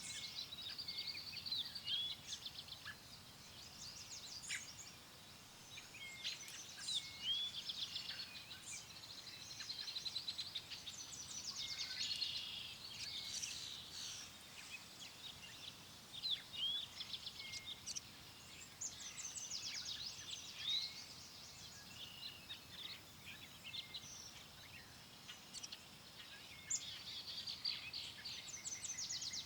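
Several songbirds chirping and trilling without pause, many short calls overlapping, over a faint steady rush of wind.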